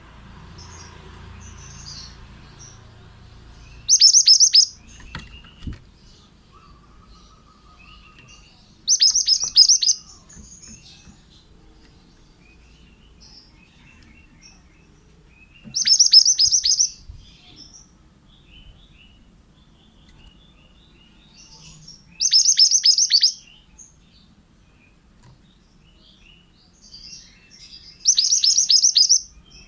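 Male pied bushchat (burung mantenan) singing: five loud, high song phrases of about a second each, spaced roughly six seconds apart, each a quick run of falling notes, with soft chirps in between.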